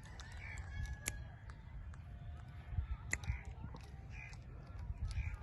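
Ringneck parrot giving a few soft, short chirps, spaced about a second apart, with two sharp clicks and a low rumble underneath.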